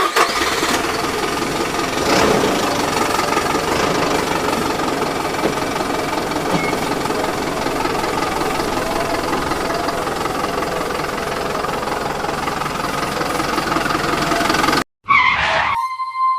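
Small motor of a DIY model tractor running steadily with a dense mechanical whir, cutting off suddenly near the end, followed by background music.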